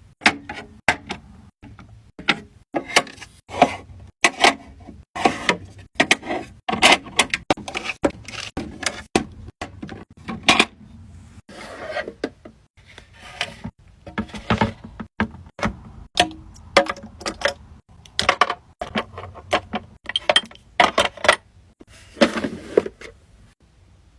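Irregular clicks, taps and clatters of small containers being handled and set down, several a second at times, as when a mini beauty fridge is stocked with skincare and makeup products.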